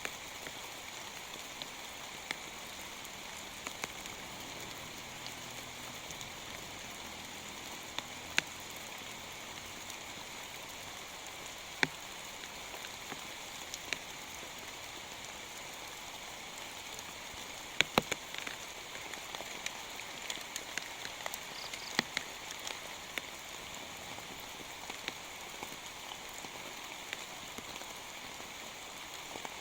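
Rain falling steadily, with scattered sharp drop ticks over the patter, the loudest a close pair about eighteen seconds in.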